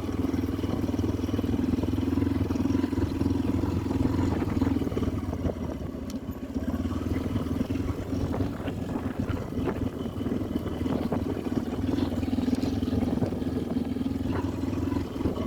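Motorcycle engine running steadily under way, easing off for a few seconds midway and then picking up again.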